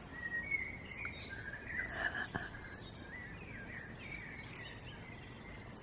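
Several small birds calling: many short, very high chirps and some gliding whistled notes over a faint steady background.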